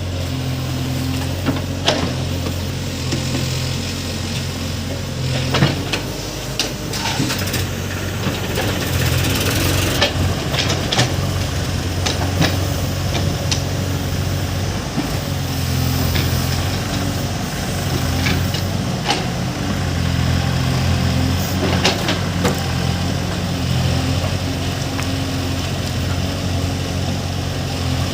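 Heavy diesel engine of a JCB backhoe loader running steadily, swelling and easing at times as it works, with scattered short metallic knocks and clanks.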